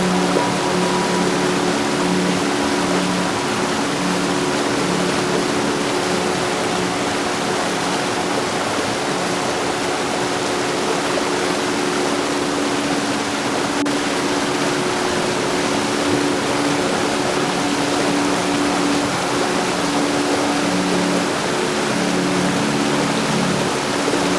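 Heavy rain falling steadily, an even hiss with no thunder claps, with faint low sustained tones underneath.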